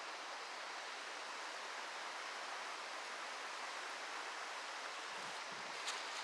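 Steady rushing of running water, as from a mountain brook, with a short sharp click near the end.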